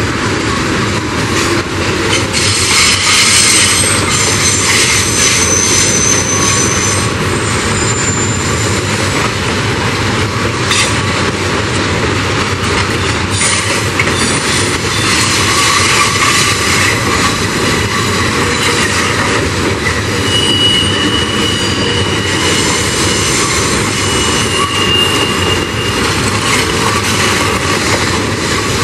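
Freight train of tank wagons rolling steadily past on a curve. High-pitched wheel squeal on the curved rails comes in about three seconds in and again around twenty seconds in.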